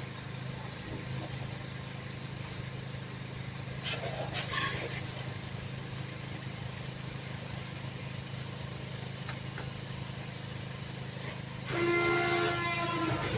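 A vehicle engine idling steadily, with a few sharp knocks about four seconds in and a held horn-like tone near the end.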